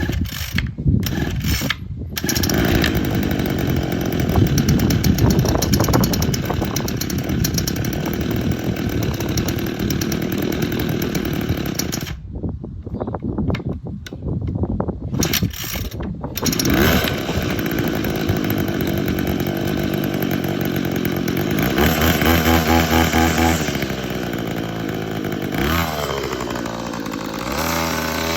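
Cold start of a small handheld two-stroke engine on yard equipment. It catches after a couple of brief sputters and runs, then cuts out about twelve seconds in and comes back after a few seconds of stop-start attempts. Near the end it runs loudly, its pitch falling and then climbing again.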